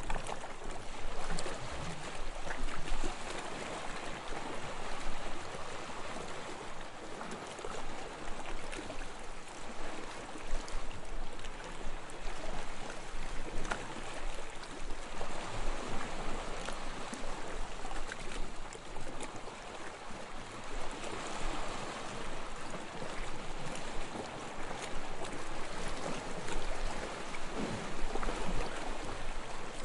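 Small, gentle waves lapping onto a sandy shore, a steady wash of water that swells and ebbs every few seconds.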